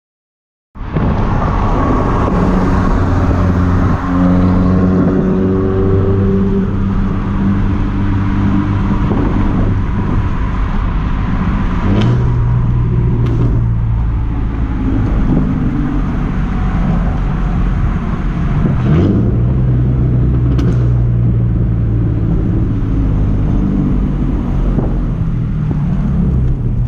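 Car engine running under way, starting abruptly about a second in. Its pitch climbs for a few seconds, then holds fairly steady with a couple of changes in pitch.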